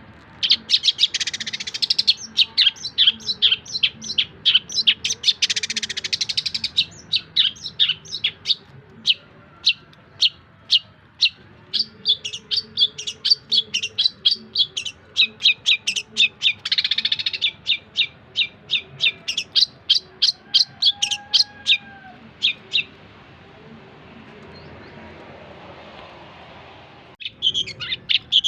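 Long-tailed shrike (cendet) singing a long run of short, sharp chirps, several a second. It falls quiet about three quarters of the way through, then resumes after a short break near the end.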